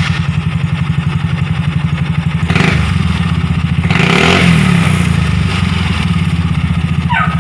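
Fuel-injected motorcycle engine running just after starting, with a steady pulsing idle and two short throttle blips, about two and a half and four seconds in. It is being run after an air-fuel ratio adjustment meant to stop backfiring.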